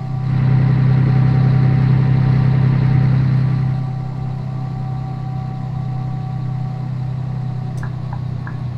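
Scania 113 truck's diesel engine running steadily with a deep, even hum. It gets quieter about four seconds in.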